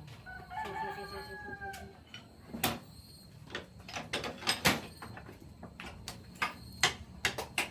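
A brief held pitched call, then a run of sharp knocks and clacks, irregular and several a second at times, loudest about five and seven seconds in.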